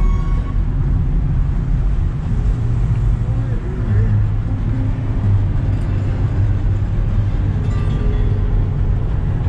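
Steady low rumble of a car's engine and road noise heard from inside the cabin while driving. Car-radio music cuts off just after the start.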